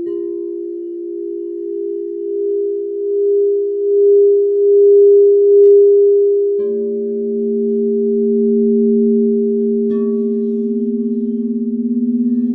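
Crystal singing bowls ringing with long sustained, wavering tones; about halfway through a lower-pitched bowl is struck and joins in, and a brief higher note sounds near the end.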